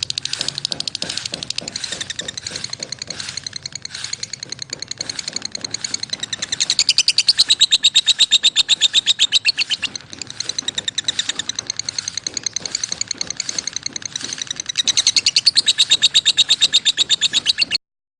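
Lovebirds chirping in a fast, continuous run of high, rapid chirps that grows louder for a few seconds twice, then cuts off abruptly near the end.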